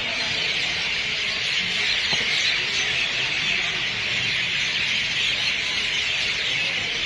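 Dense, unbroken chorus of a large flock of birds chirping and calling all at once, a steady high-pitched chatter.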